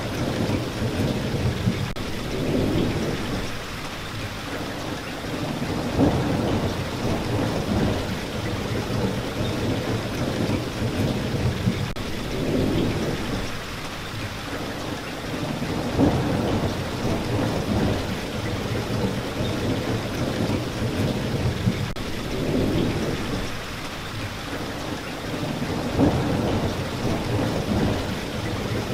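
Steady rain with low rumbles of thunder that swell and fade every few seconds.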